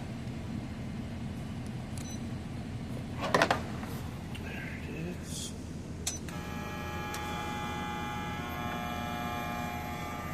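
A clatter of handling about a third of the way in, then a click, and a small electric appliance switches on. It runs with a steady hum of several tones over the low steady drone that runs throughout.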